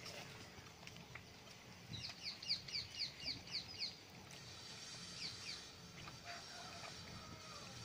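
A bird calling: a quick run of about eight short, falling, high-pitched chirps, roughly four a second, then two more a moment later.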